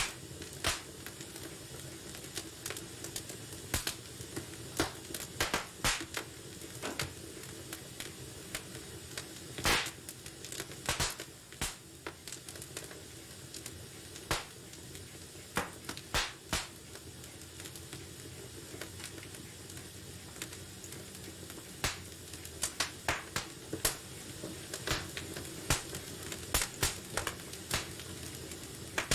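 Fire crackling in a fireplace: irregular sharp pops and snaps over a steady low hiss of burning. The pops thin out in the middle and come thick again near the end.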